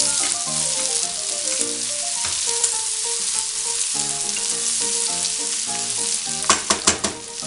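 Rabbit pieces with garlic and herbs sizzling in hot oil in a stainless steel pot, stirred with a wooden spoon, with a few sharp knocks of the spoon against the pot near the end. Faint music plays underneath.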